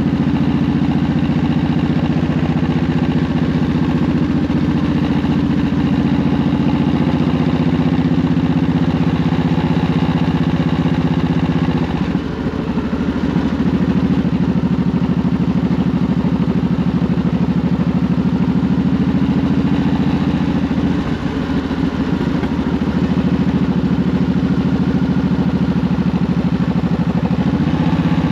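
Honda VTX 1800's V-twin engine running steadily as the motorcycle rides along, heard from the rider's seat. The engine sound eases off briefly twice, about twelve seconds in and again around twenty-one seconds.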